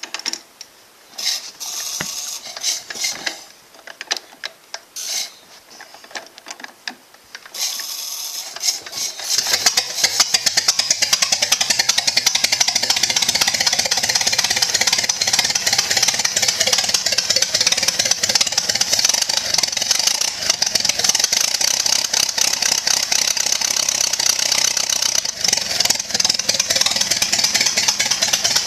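1917 Ford Model T four-cylinder flathead engine being hand-cranked with irregular clanks, then catching about nine seconds in and running steadily with a fast, even beat.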